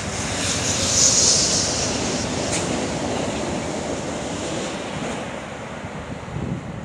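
Diesel-hauled passenger train passing at speed: a steady rush of wheels on rail with a high hiss. It is loudest about a second in and slowly fades as the cars go by.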